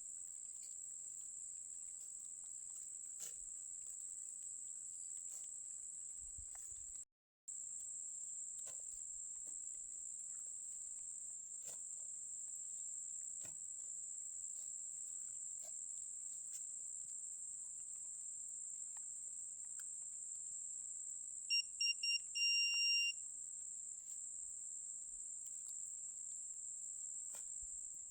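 Insects shrilling on one steady high note throughout, broken by a brief dropout about seven seconds in. About three-quarters of the way through, a metal detector gives a few quick electronic beeps and then a longer beep, the loudest sound here.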